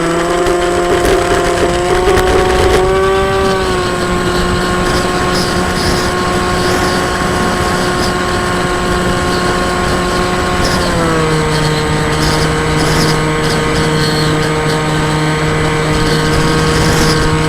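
40-inch model flying wing's motor and propeller running at a steady high pitch. It rises slightly about three seconds in, then steps down to a lower steady pitch about eleven seconds in as the throttle is eased back.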